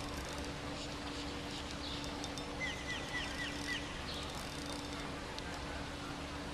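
Outdoor ambience with a bird giving a quick series of about six high chirps a little under three seconds in, over a steady low hum.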